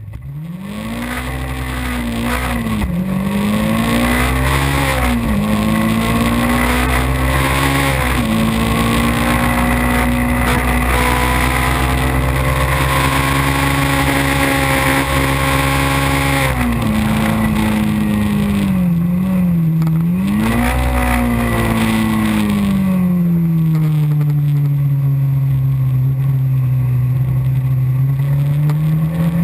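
Race car engine heard from on board, accelerating hard from the race start: the pitch climbs and drops sharply with three quick upshifts, then holds at high revs. Past the middle the revs dip twice, then fall away slowly as the car slows for a corner and climb again near the end.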